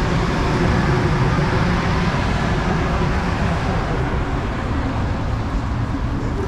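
Steady city traffic noise: a continuous, fairly loud rumble of street traffic with no single distinct event.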